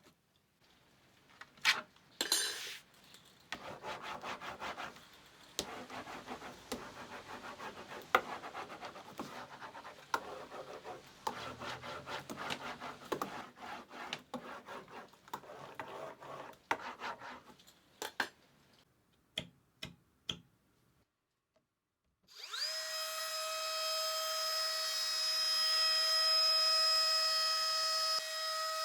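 Wood being worked by hand: a long run of irregular scraping and rubbing strokes with sharp knocks. After a short pause about three quarters of the way through, a power tool's electric motor spins up quickly to a steady high whine.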